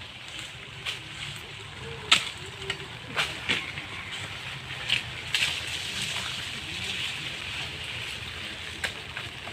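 Rain falling, with drops tapping sharply close by now and then, over a low steady engine hum.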